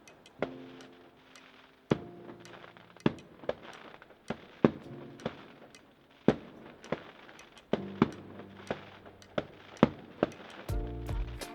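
Fireworks display: a string of sharp bangs from exploding shells, about one or two a second, each with a short echoing tail.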